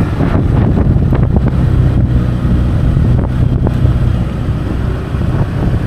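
Motorbike engine running as it is ridden along a road, a steady low hum, with wind buffeting the microphone.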